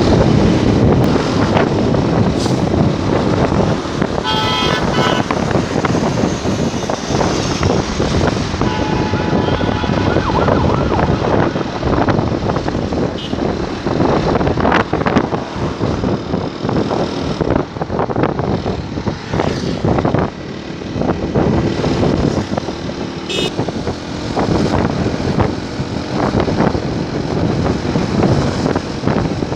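Wind buffeting the microphone and road noise while riding a motorcycle, with a vehicle horn tooting briefly about four seconds in.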